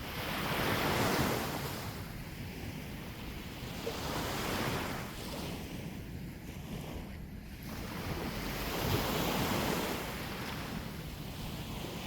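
Sea waves breaking and washing on the shore, the surf swelling up about every three to five seconds, with wind rumbling on the microphone.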